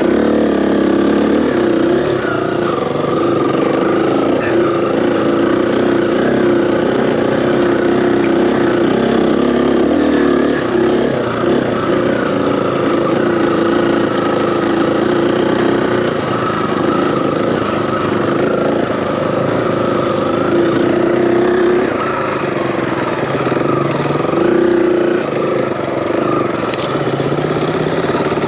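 A KTM 350 EXC-F's four-stroke single-cylinder engine runs steadily as a dirt bike rides along a trail, its pitch wavering slightly with the throttle.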